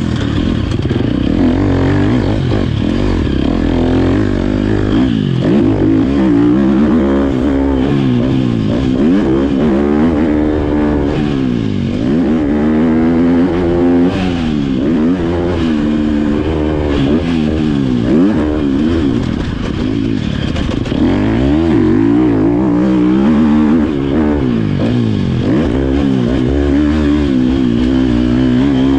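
Motocross dirt bike engine revving up and falling back again and again as it is ridden around the track, its pitch rising and dropping every second or two with gear changes and throttle.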